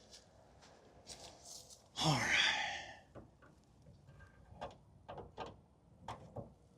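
A flathead screwdriver working in an old car's trunk lock: a series of short, sharp metal clicks and scrapes in the second half, after a sighed "All right".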